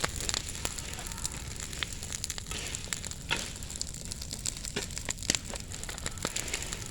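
Bonfire of dry hoed weeds and brush crackling, with irregular sharp pops over a steady hiss.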